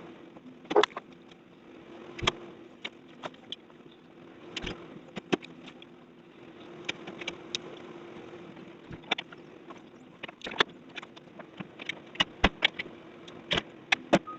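Heavy equipment engine running steadily, with irregular clanks and knocks of demolition debris being handled throughout.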